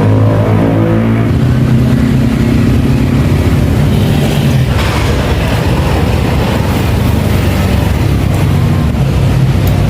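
Honda automatic scooter engine running, its speed shifting up and down a few times.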